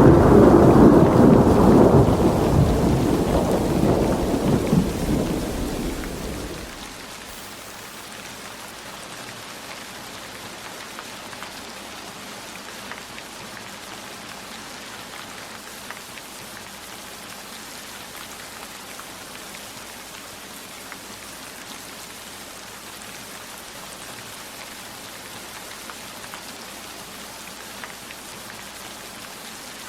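A roll of thunder dies away over the first seven seconds or so, leaving steady heavy rain with scattered drops ticking.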